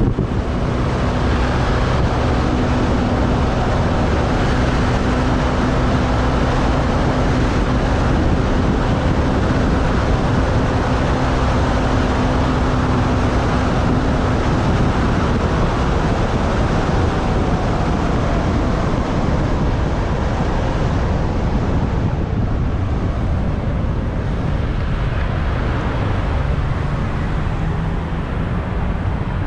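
Wind rushing over the microphone on a moving motorbike, over the bike's engine running steadily in city traffic. A steady engine hum stands out for about the first half, then fades into the wind and road noise.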